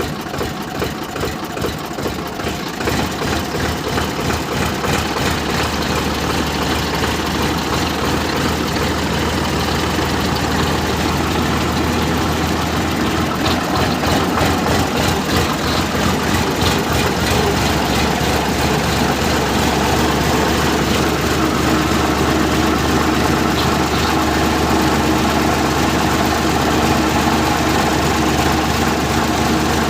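Tractor engine running steadily with a regular chugging pulse, growing a little louder over the first few seconds.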